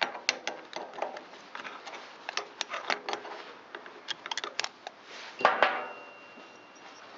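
Plastic piston-ring compressor being worked off a chainsaw piston, with many small scattered clicks and taps, then two louder sharp snaps about five and a half seconds in, as it is cut away.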